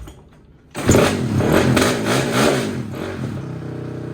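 Pit bike's single-cylinder engine comes in suddenly about a second in, revving up and down, then settles to a steady idle near the end.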